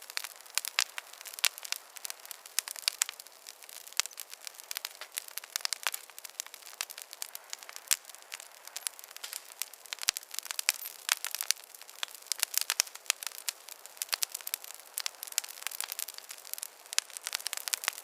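Wood fire in a fireplace crackling steadily, with many small irregular snaps and pops over a soft hiss.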